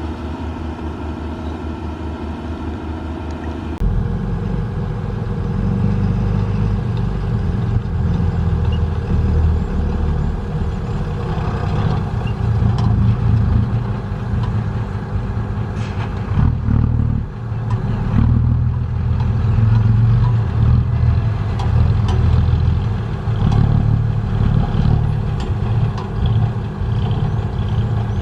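Heavy diesel engines of construction machinery running. About four seconds in, the sound changes abruptly to a louder, deeper engine, which then rises and falls as the machine works.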